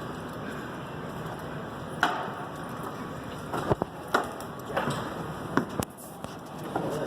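A steady rushing noise with about half a dozen irregular knocks and clicks, the handling of tools and equipment, from about two seconds in.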